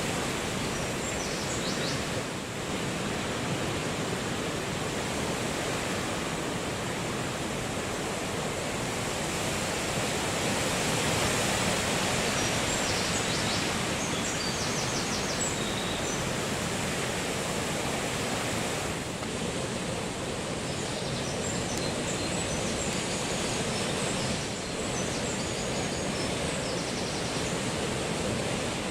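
Steady rushing noise of strong wind and the sea, with a slight swell in level about halfway through.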